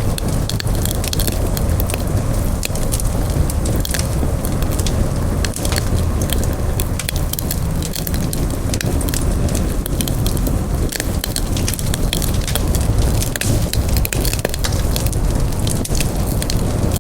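Campfire burning, with frequent irregular crackles and pops from the wood over a steady low rumble of the flames.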